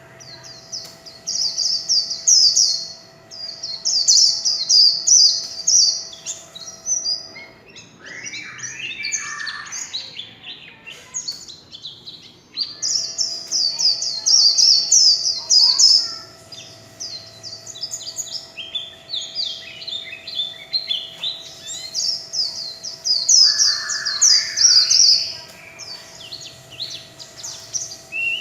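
White-eye (vành khuyên) singing long runs of rapid, high twittering warble, broken by a few short pauses, with some lower warbled notes mixed in. A faint steady hum sits underneath for most of the time.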